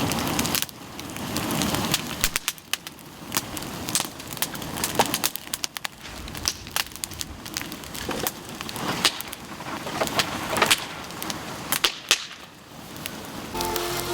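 Bamboo fire crackling, with many irregular sharp pops and cracks over the rushing of the flames.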